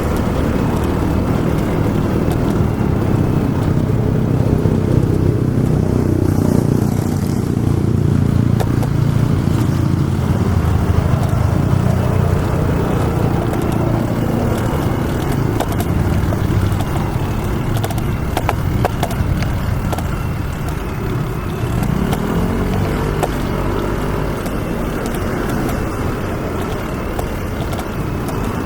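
City road traffic: motor vehicle engines running and passing close over a steady road rumble, with one engine's pitch rising and falling near the end.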